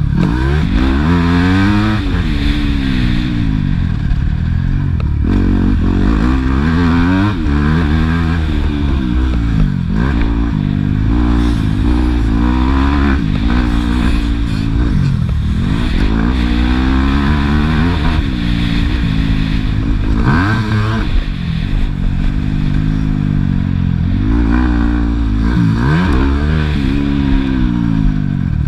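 Motocross bike engine revving hard and easing off over and over, its pitch climbing and dropping every second or two with the throttle.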